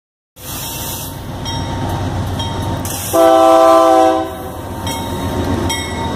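Diesel freight locomotives rumbling past at close range, with wheels running on the rails. About three seconds in, a locomotive horn sounds one chord of several tones for about a second.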